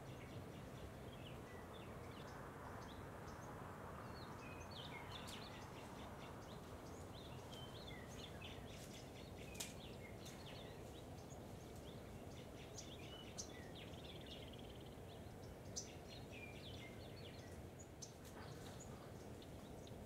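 Scattered chirps and short calls of several small birds over a faint, steady background hiss, with a few sharp clicks standing out.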